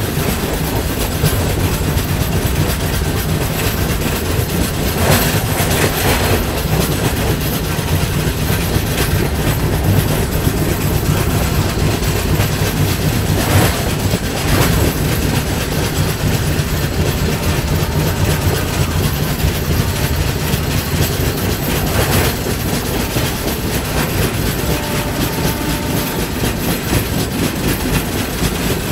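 The Konark Express running along the track, heard from on board: a steady rumble of wheels on rail, with a few sharp clacks from rail joints or points.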